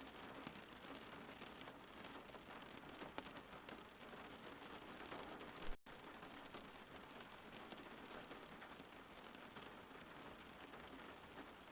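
Faint, steady rain falling outside, an even hiss of drops. A little under six seconds in there is a brief sharp pop and the sound cuts out completely for an instant before the rain resumes.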